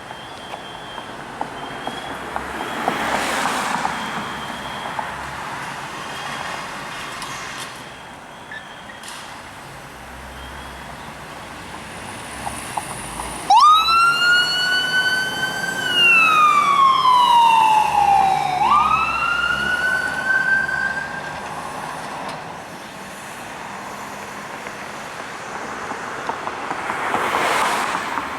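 Emergency vehicle siren switching on suddenly about halfway through. It rises, then sweeps slowly down and back up in one long wail before fading. Road traffic passes before and after it.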